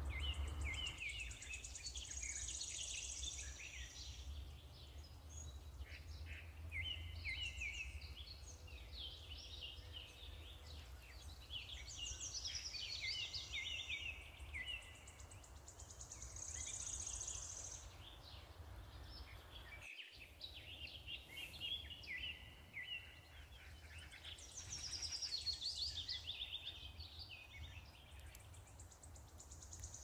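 Songbirds singing: repeated bursts of chirps and trills every few seconds, over a steady low rumble. All sound drops out for a moment about two-thirds of the way through.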